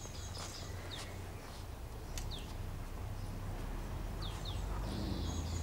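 Garden ambience with a small bird giving a few short, high, falling chirps over a steady low hum.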